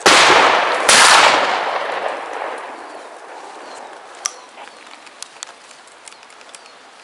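Two gunshots about a second apart, each rolling away in a long echo that dies down over a couple of seconds, fired during a wild boar hunt. Faint bird chirps follow.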